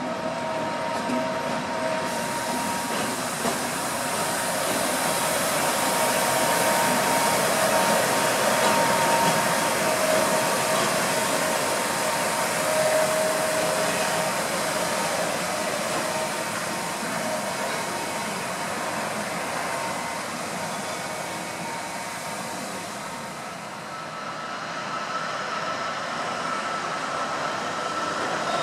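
MÁV 448-class (M44) diesel shunting locomotive moving a rake of passenger coaches through a station: steady train rolling noise with faint thin steady tones over it, growing louder a few seconds in and easing off after about twenty seconds.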